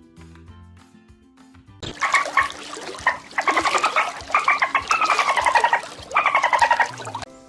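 Soft background music, then, about two seconds in, a loud, harsh animal call comes in several rapid, pulsing bouts that fall in pitch, lasting about five seconds.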